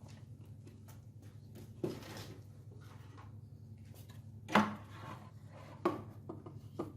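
Objects being set down and handled on a hard work surface: four knocks or taps, the loudest a little past the middle, over a steady low hum.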